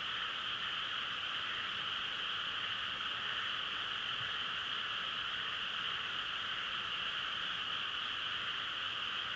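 A dense chorus of many frogs calling together, blending into a steady, unbroken drone.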